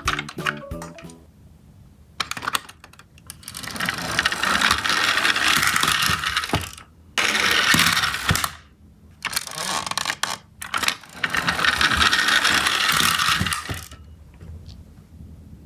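Toy garbage trucks running: a plastic whirring and rattling of small wheels and gears in four runs, each lasting one to a few seconds, with short gaps between them. Background music plays at the start.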